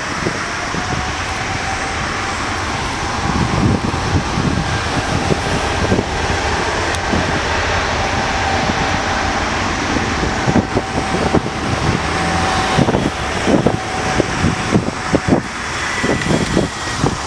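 Boeing 777-200ER's twin jet engines at takeoff power: a loud, steady roar with a held whine. Uneven low rumbling pulses come in during the second half.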